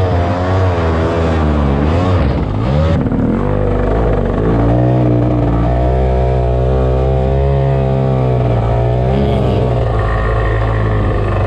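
Kawasaki JS300 single-cylinder two-stroke jet ski engine driving a micro jet boat, running loud. Its revs rise and fall over the first few seconds, then hold fairly steady.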